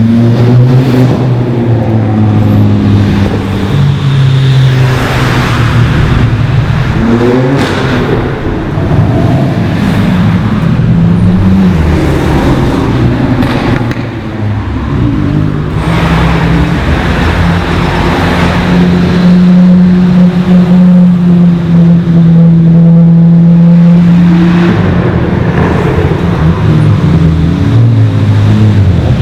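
Modified road cars driving past one after another, their engines revving and accelerating, the pitch rising and falling with each car. In the middle one engine holds a steady note for several seconds.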